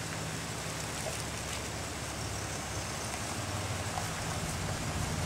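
Ford Taurus sedan idling: a steady low engine hum under an even background hiss.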